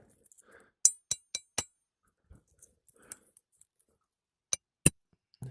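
Four quick metal-on-metal clinks about a quarter second apart, each with a short high ring, then two sharper knocks near the end: hand tools striking metal while old roof shingles are worked loose.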